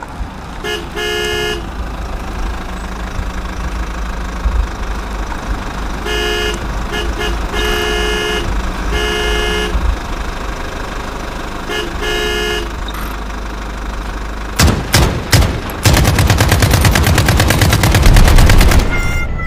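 Truck engine rumbling steadily while a horn honks several times, some short toots and some longer blasts. About fifteen seconds in come a few sharp cracks, then a fast, even rattling run lasting about three seconds.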